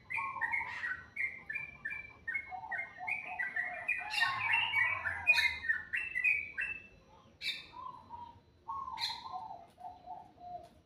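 Songbirds singing: quick runs of short chirping notes, with a lower series of stepping notes and several sharp, high call notes over them.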